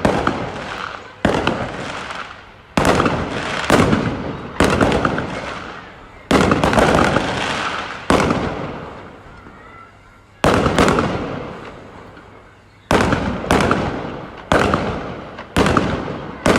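Fireworks bursting overhead: about a dozen loud bangs at irregular intervals, a second or two apart, each trailing off in a long fading crackle and rumble.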